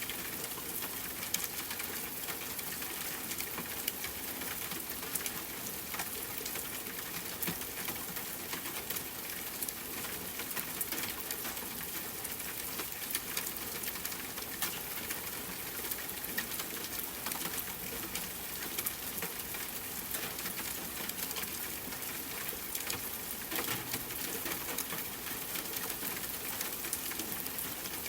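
Rain falling steadily on a tent, mixed with campfire crackling: an even hiss dotted with many small sharp ticks and pops.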